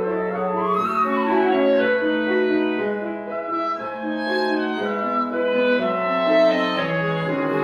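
Wind quintet playing classical chamber music: several voices holding sustained notes while one line runs quickly up and back down about a second in.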